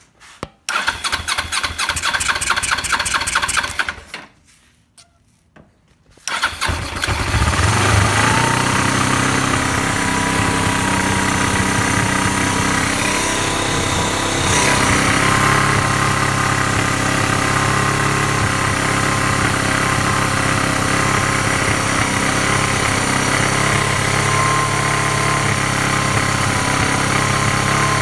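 Suzuki GS500 parallel-twin motorcycle engine being started. The starter cranks it in an even rhythm for about three seconds without it running. After a pause of about two seconds it catches at the second attempt and settles into a steady idle.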